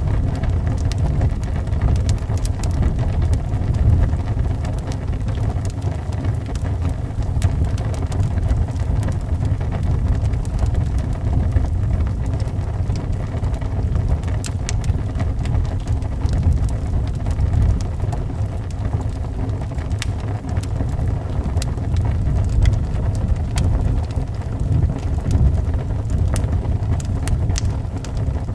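Wood fire crackling, with scattered sharp pops and snaps, over wind blowing as a steady low rumble.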